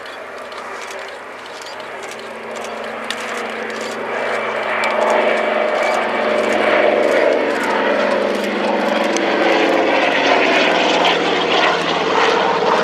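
A Douglas C-47 Dakota's twin Pratt & Whitney R-1830 radial engines drone steadily with propeller noise, growing steadily louder as the aircraft approaches.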